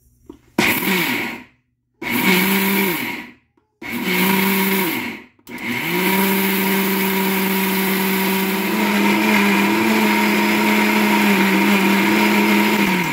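Vidiem Vision Blue 650-watt mixer grinder grinding dosa batter: the motor is pulsed in three short bursts, then runs without a break for about eight seconds. Its hum rises in pitch as it spins up and sinks each time it stops.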